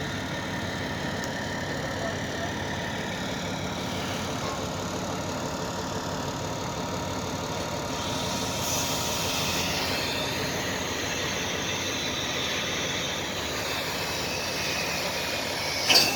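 An engine running steadily, with a sharp click just before the end.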